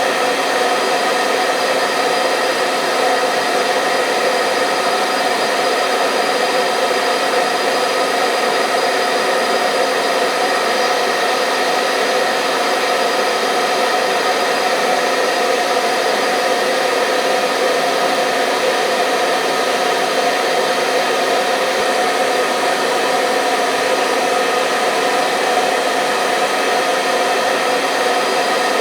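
Electric hair dryer running continuously at a steady speed: an even whooshing airflow with a faint motor hum, unchanging throughout.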